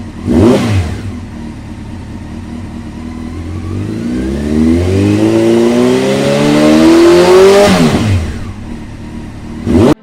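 Vehicle engine revving in quick pass-bys: a loud pass with falling pitch about half a second in, then the engine note climbing steadily in pitch before dropping away, and a second quick pass just before the end.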